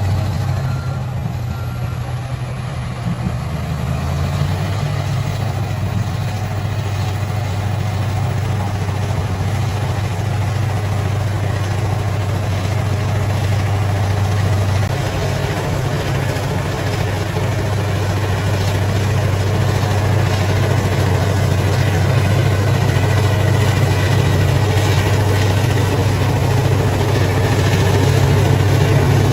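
Bulldozer's diesel engine running steadily at a constant low pitch, growing slightly louder toward the end.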